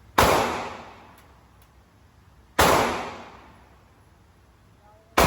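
Three single gunshots from an AR-15 pistol, fired slowly about two and a half seconds apart, the last one right at the end. Each shot has a long echoing tail that dies away over about a second and a half.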